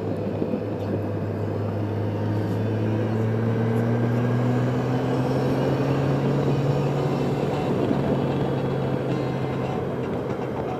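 Motorcycle engine running at road speed under steady wind noise, its pitch rising gradually for a few seconds about two seconds in as it speeds up.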